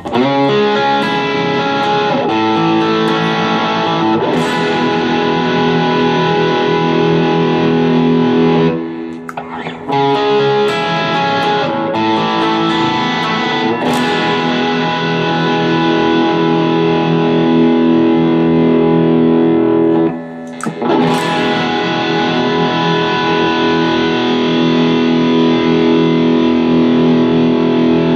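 Electric guitar played through a Joyo American Sound amp-simulator pedal with a driven tone, long ringing chords broken by two brief pauses, about a third of the way in and again about two-thirds in.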